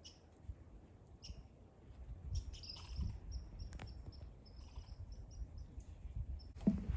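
Small songbird calling: a few short high chirps, then a quick run of high notes lasting a few seconds, over a low rumble.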